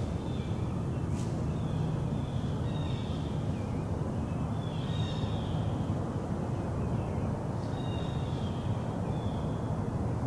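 Steady low rumble with wild birds calling over it several times in short, high, falling notes, and one sharp click about a second in.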